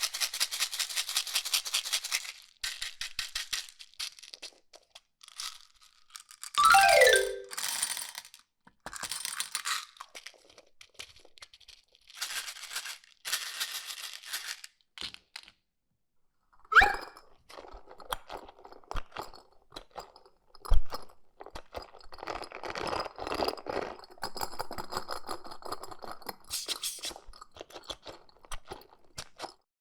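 A string of rapid clicking and rattling bursts, broken up by edited-in cartoon sound effects: a quick falling glide about a quarter of the way in, a sharp rising sweep just past halfway, and a single thump soon after.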